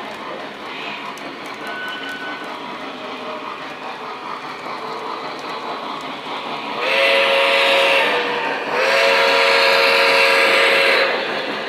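A Lionel model train running on its track sounds its whistle in two blasts about seven seconds in, a short one and then a longer one, both much louder than the running noise.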